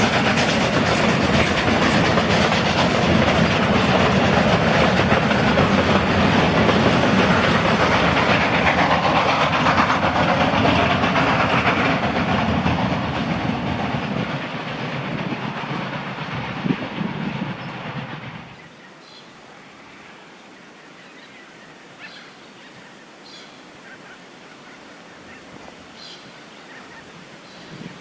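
Train hauled by K class steam locomotive K153 rolling past, its wheels clacking over the rail joints. The noise fades and then drops away suddenly about two-thirds of the way through, leaving quiet open air with a few faint high chirps.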